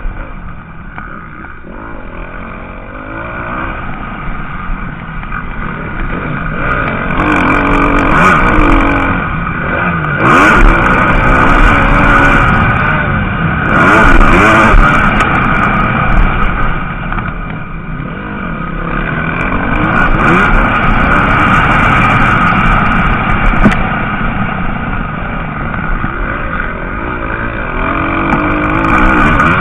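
Several MX2 motocross bikes racing, their engines revving up and down with rising and falling pitch; the sound swells as bikes pass close, loudest from about a quarter to halfway in and again about three quarters in.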